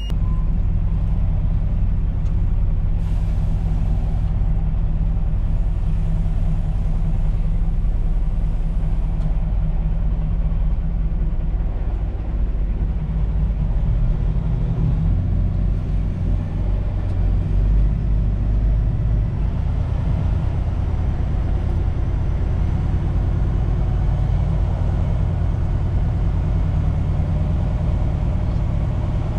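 A truck's diesel engine running as the truck moves off and drives slowly, a steady low rumble whose note shifts about two-thirds of the way through.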